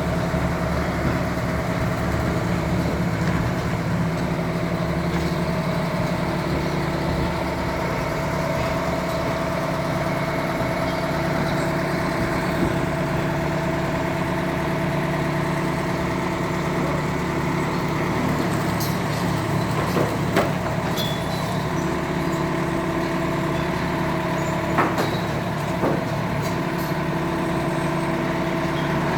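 Engine running steadily at a constant speed. A few sharp knocks sound about 20 and 25 seconds in.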